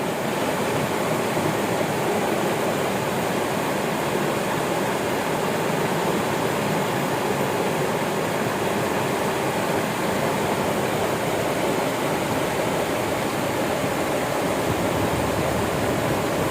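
A river flowing: a steady, even rush of water with no changes.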